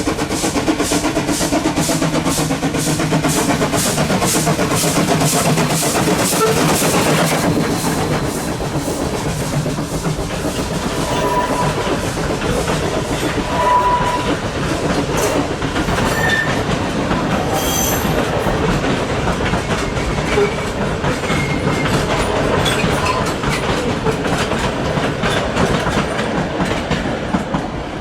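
C17 class steam locomotive working with regular, evenly spaced exhaust beats for the first seven seconds or so. Its carriages then roll on, wheels clattering on the rails, with a few short high squeals.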